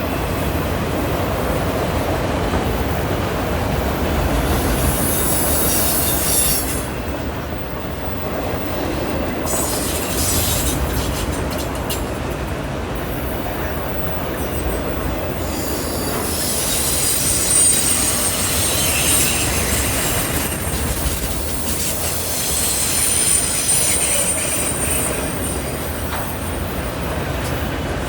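Freight cars rolling past on a curve: a steady rumble of wheels on rail, with high-pitched wheel squeal from the wheel flanges rubbing the curved rail. The squeal comes in a few seconds in, then again for several seconds over the second half.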